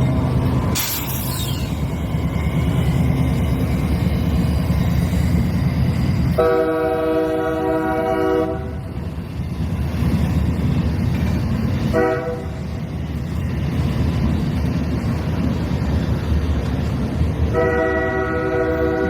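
CSX freight train rumbling past while the locomotive's horn sounds a long blast, a short blast, then another long blast, the tail of the long-long-short-long grade-crossing signal. A brief sharp noise comes about a second in.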